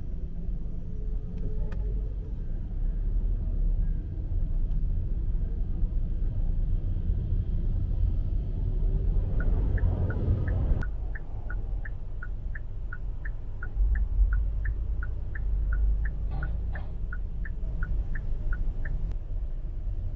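Street traffic rumble, with a swell of noise that builds and cuts off about eleven seconds in. Over it, a run of short high chirps, about three a second, lasts for about ten seconds in the second half.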